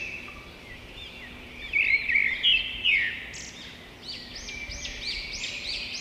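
Birds chirping: many short, high, arched chirps, loudest about two seconds in, then a quicker, regular run of repeated chirps near the end.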